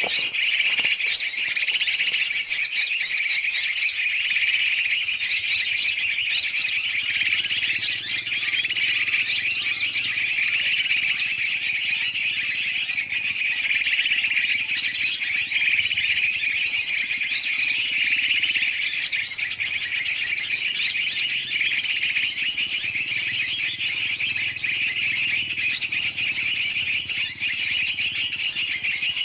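Dense, continuous chorus of many birds chirping and chattering, a bird-lure recording that mixes noisy calls of large and small birds. From about halfway through, fast high trills repeat over the chatter.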